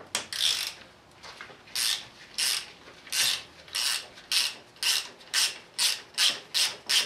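Hand ratchet wrench clicking in repeated back-and-forth strokes as a bolt is backed out, starting about two seconds in and speeding up toward the end as the bolt loosens.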